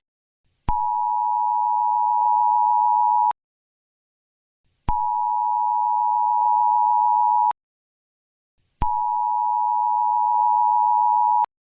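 Emergency alert attention tone, the two-pitched EAS-style signal, sounding three times. Each steady beep lasts about two and a half seconds, with a second and a half of silence between them.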